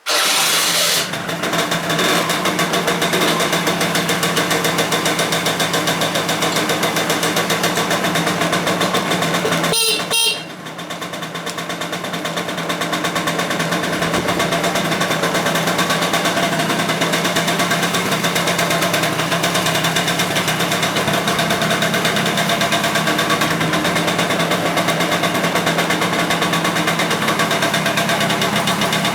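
Honda Spree's 49cc two-stroke single-cylinder scooter engine starting abruptly and running with a steady buzz. About ten seconds in it briefly drops out, then builds back up over a few seconds and runs on steadily.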